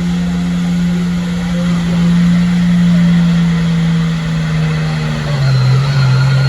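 Truck-pull truck's engine running hard under full load as it drags the weight sled down the track; its steady note drops to a lower pitch about five seconds in.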